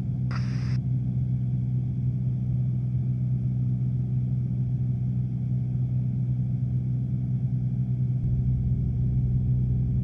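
Steady drone of a light aircraft's engine and propeller heard from inside the cabin, with a brief hiss about half a second in.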